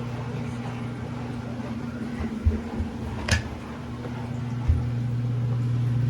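Front-loading washing machine's drain pump switching on with a steady electrical hum, as the machine drains. A few dull knocks and one sharp click come about halfway through.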